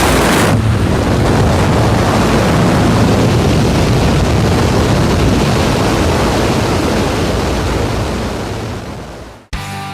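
Loud, steady rush of wind buffeting the microphone during a skydive. It fades about nine seconds in and cuts off abruptly.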